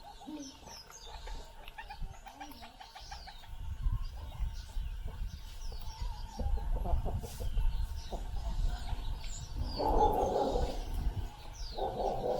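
Many wild birds chirping and calling over one another in short high notes, with a louder burst of lower calls about ten seconds in.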